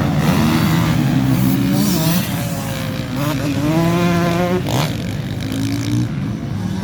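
Several motocross bikes racing on the track, their engines revving up and down over each other. In the middle, one engine climbs steadily in pitch, then cuts off sharply about five seconds in.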